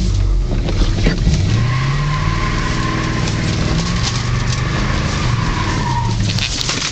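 Ford Thunderbird under hard acceleration: the engine revs up while a tire squeals steadily for about four seconds, and the squeal drops in pitch and dies out near the end.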